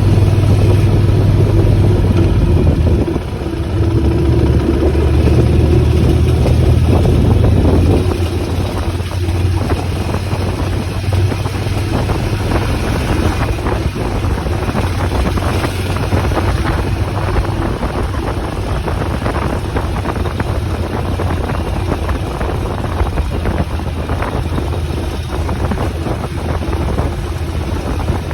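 Motorcycle engine running while the bike is ridden, with wind noise on the microphone. The engine's note is steady and strongest for the first eight seconds or so, then it becomes rougher and more mixed with wind.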